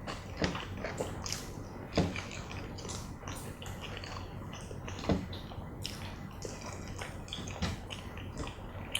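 Close-up eating sounds: chewing and wet lip smacks while eating fried chicken, with a few louder smacks about half a second, two, five and seven and a half seconds in.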